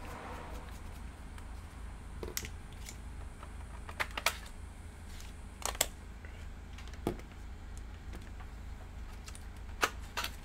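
Scattered sharp clicks and taps of hard plastic laptop parts being handled and set down, some in quick pairs, over a steady low hum.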